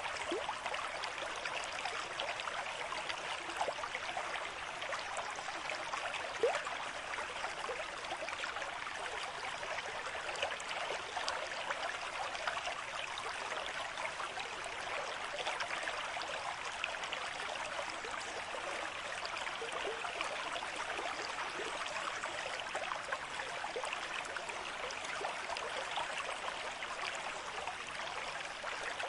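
Water in a stream running steadily, with many small splashes throughout.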